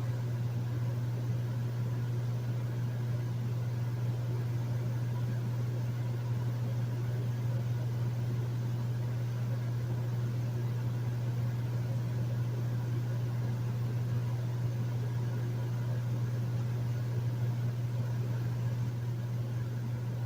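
Hotel room air conditioner running steadily: a constant low hum under a soft, even rush of fan air.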